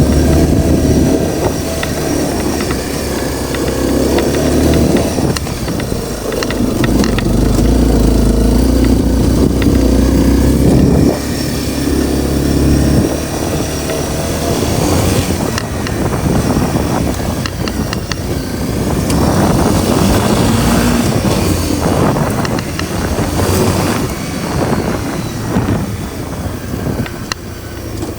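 Honda CRF250L's single-cylinder four-stroke engine running as the motorcycle is ridden, its revs rising and falling, with a dip in level about eleven seconds in.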